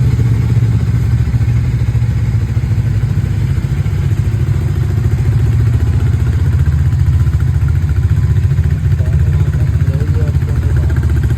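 Motorcycle engine idling steadily, an even low rumble with no revving.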